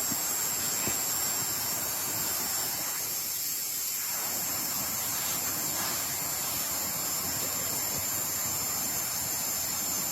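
Heavy rain falling steadily, a continuous hiss with a few faint drop ticks.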